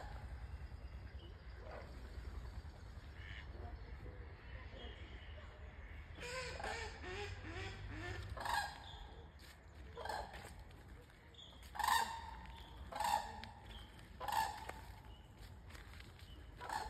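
Outdoor bird calls: soft chattering from about a third of the way in, then six loud, short calls spaced a second or two apart, over a low rumble.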